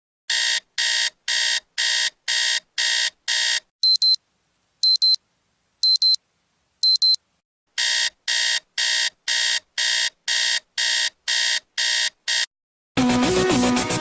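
Electronic alarm clock beeping: a run of short beeps at about two a second, then four higher-pitched double beeps about a second apart, then another fast run of beeps.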